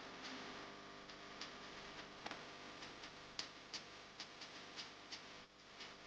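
Faint, irregular light clicks and taps from coloring, about two or three a second, over a low steady hiss.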